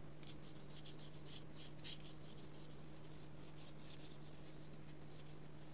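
Paintbrush brushing gouache across smooth paper: faint, quick, repeated scratchy strokes.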